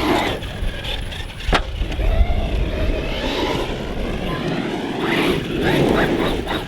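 Brushless electric motor of a Team Corally Jambo 1/8-scale RC stunt truck, run on a 4S LiPo, whining up and down in pitch as it is driven hard, over a low rumble, with a sharp knock about a second and a half in.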